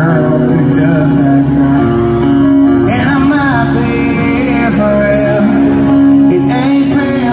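Live country song played by a full band with a singer, loud and continuous; the sung line holds a wavering note about three seconds in.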